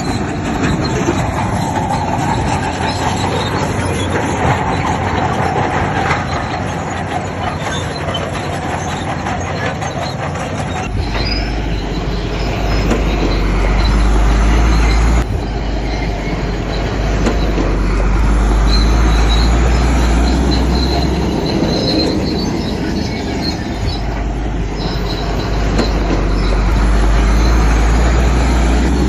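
Crawler bulldozer working: diesel engine running under load while the steel tracks clank and squeal. A heavy low rumble comes in abruptly partway through, and the sound shifts sharply a few more times.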